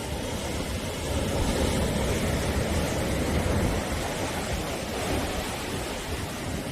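Sea waves washing onto the shore: a continuous rush of surf that swells a little in the first few seconds and eases slightly toward the end.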